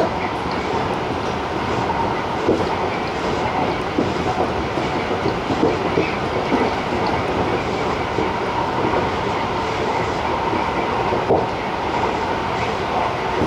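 Tobu 50090-series electric train running at speed, heard from the cab: a steady rumble of wheels on rail with a faint steady whine and irregular clicks as the wheels cross rail joints.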